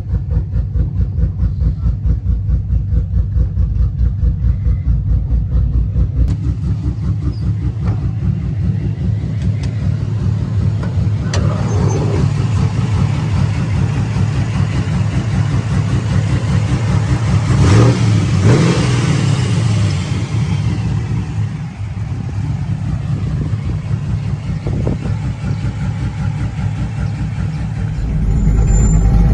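Cammed Chevrolet 5.3 V8 running with a choppy, pulsing lope, then picking up speed after about six seconds, with its loudest pull around the middle, before settling back into the lumpy pulse near the end.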